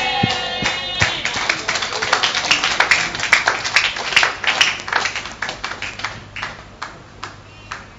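Audience applause, many hands clapping at once, thinning out to a few scattered claps and dying away near the end. A brief pitched tone sounds right at the start.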